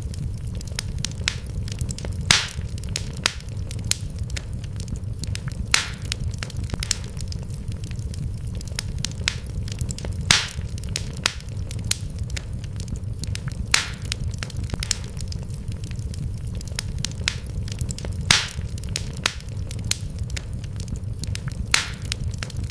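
Wood fire in a fireplace crackling, with constant small snaps and a louder pop every few seconds, over a steady low rumble.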